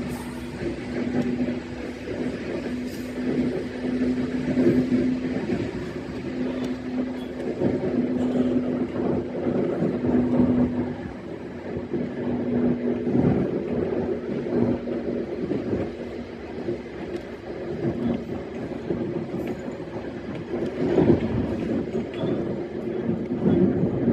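An E131-series electric train running along the line, heard from on board: a continuous rumble of wheels on the rails with a steady low hum that fades in and out, and scattered light knocks.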